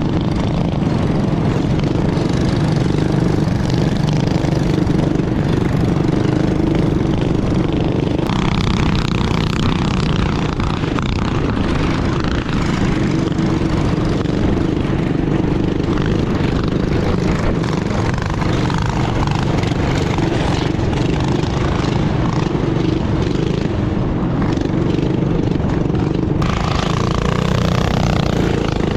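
Mini bike engines running steadily under throttle while riding, mixed with a steady rushing wind noise. The sound changes abruptly about eight seconds in and again near the end.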